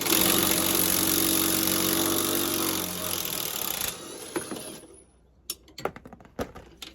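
Power impact wrench buzzing for about four seconds while it works the nut on a worn sway bar link, then trailing off. A few short metallic clicks and knocks follow as the parts are handled.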